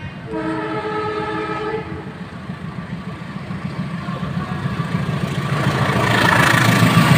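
Train horn blowing a chord of several steady tones for about a second and a half, followed by the rumble of the passing train growing steadily louder as it approaches.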